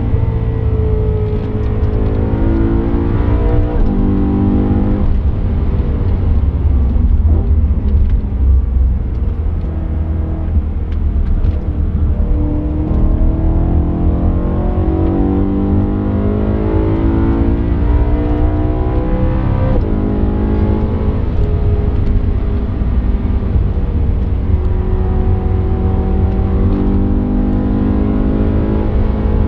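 BMW M3 E92's 4.0-litre V8 heard from inside the cabin at full track pace, its revs climbing over several seconds and dropping back again, several times over, above a loud steady low rumble.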